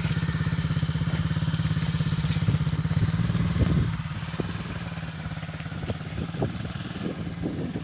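Small motocross bike's engine running steadily, louder for the first four seconds and then quieter as it eases off or moves away.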